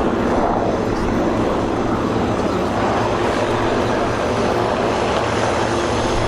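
Corsair fighters' Pratt & Whitney R-2800 radial engines and propellers in a steady, loud drone as the formation flies a display.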